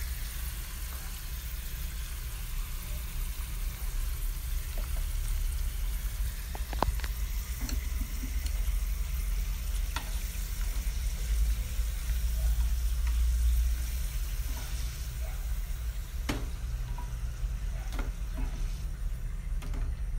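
Potato slices deep-frying in hot oil in a small aluminium pan: a steady sizzle, with a few light clicks as wooden chopsticks touch the pan while turning and lifting out the slices.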